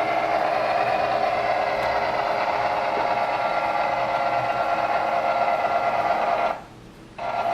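Model train running on the layout's track: a steady whir of the locomotive's motor and wheels. It drops away for under a second near the end, then resumes.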